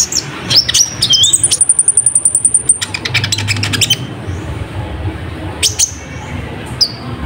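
Sunbird (kolibri ninja) singing: quick high, sharp chirps and rising notes, then a fast, very high trill held for over a second, followed by scattered single sharp calls.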